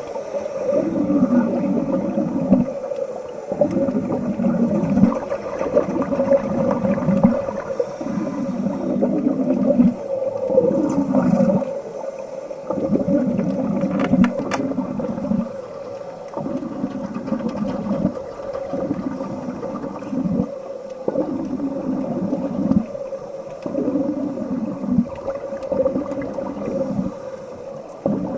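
Underwater gurgling of a diver's exhaust bubbles, in bursts about every two seconds, over a steady hum.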